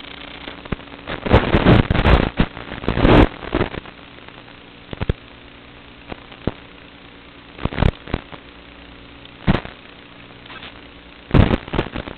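FPV quadcopter's brushless motors on Kingkong 5040 three-blade propellers, humming steadily, with short loud crackling bursts as the throttle is punched out: several in a row in the first few seconds, then single ones about every two seconds near the end.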